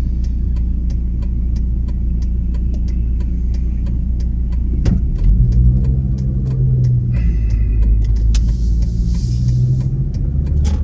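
Steady low road and engine rumble heard from inside a moving car, swelling about halfway through, with faint regular ticking.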